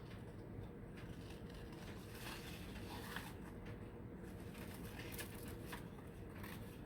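Faint rustling of paper cut-outs being handled, with scattered light clicks, over a steady low background hum.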